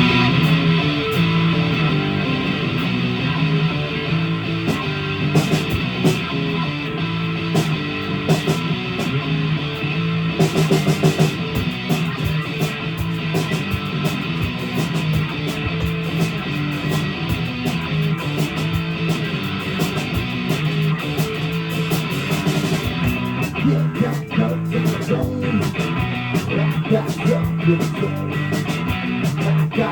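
Live rock band playing the instrumental opening of a song: distorted electric guitar, bass and drum kit with steady cymbal hits, the drums getting busier about two thirds of the way in.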